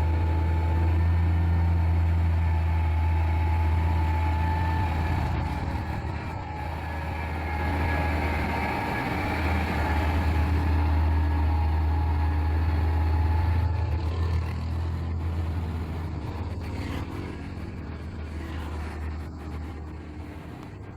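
A motor vehicle engine running steadily on a mountain road, fading over the last several seconds.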